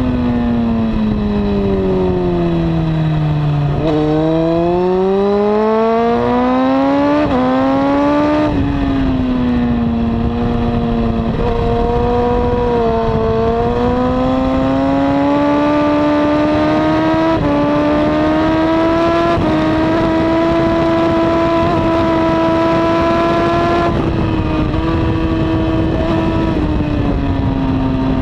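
Honda CBR954RR inline-four sport bike engine with a slip-on exhaust, heard from on board at track speed over wind rush. Its pitch falls for about four seconds as the bike slows, then climbs hard under acceleration, with a gear change about seven to eight seconds in, then holds high and steady with small rises and dips in throttle.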